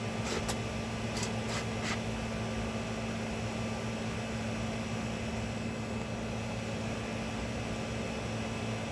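Steady electric motor hum with a low, even pitch, and five short hissing spurts in the first two seconds.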